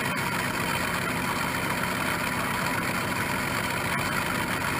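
South Bend 10-inch tool room lathe running steadily in back gear, with a constant whir from the motor, belt drive and reduction gears turning the spindle slowly.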